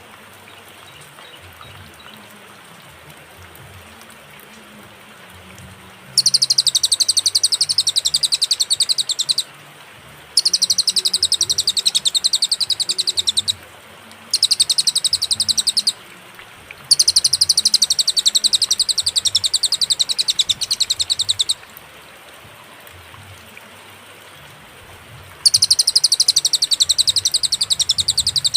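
Cililin song: a high, very rapid trill delivered in five bouts of one to four seconds, with short pauses between them, over a steady low background hiss.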